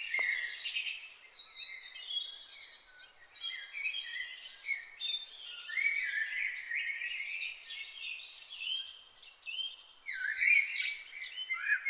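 Morning chorus of many songbirds singing and calling over one another: dense, overlapping chirps and short high phrases, with a louder burst of song near the end.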